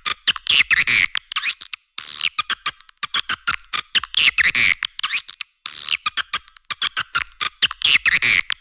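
Swiftlet lure call: rapid trains of sharp clicks mixed with high chirping twitters. The phrase repeats in a loop every few seconds and has almost no low end.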